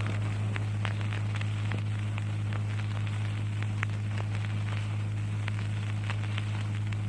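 A pause between recited verses that holds only the recording's own noise: a steady low electrical hum under an even hiss, with scattered small crackles.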